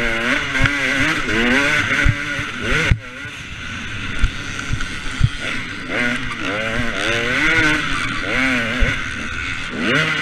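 Motocross bike engine, a two-stroke KTM 250 SX, revving up and down repeatedly as the throttle is worked. The throttle is shut briefly about three seconds in, and there are occasional low knocks.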